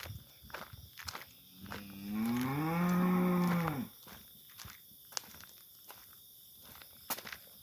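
One long, low animal call lasting a little over two seconds: it rises in pitch, holds, then falls away. Faint regular ticking runs underneath.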